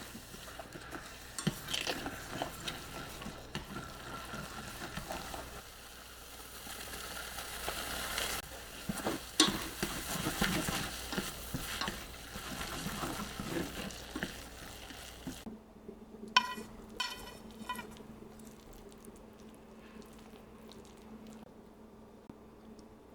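Food sizzling in a frying pan while being stirred, with clicks and scrapes of a utensil against the pan; the sizzling stops about fifteen seconds in. A brief run of rapid high squeaks follows.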